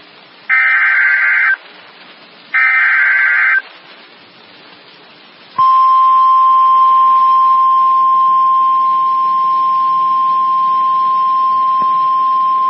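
Emergency Alert System weather-warning tones: two short, harsh buzzing SAME header data bursts a second apart, then, a couple of seconds later, a loud, steady single-pitched warning alarm tone that starts and holds.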